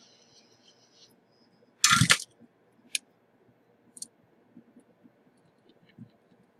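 Small tools handled on a workbench: a sharp clatter of two quick knocks about two seconds in, then a lighter click and a few faint ticks. A high hiss stops about a second in.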